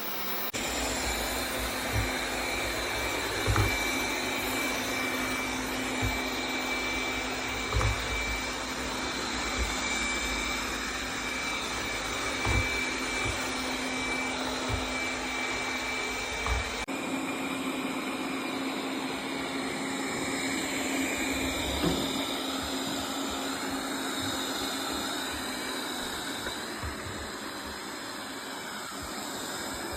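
Tikom L8000 Pro robot vacuum running with a steady whir and hum, with short low thumps every second or two. About halfway through, the sound changes abruptly and the thumps stop while the motor keeps running.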